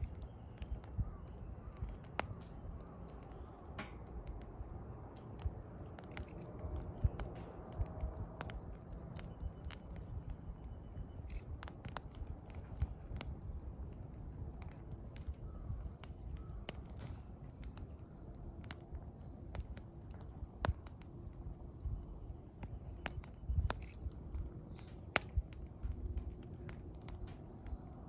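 Wood fire crackling, with irregular sharp snaps and pops from the burning firewood throughout. Faint wild-bird calls, short repeated high notes, come twice in the background.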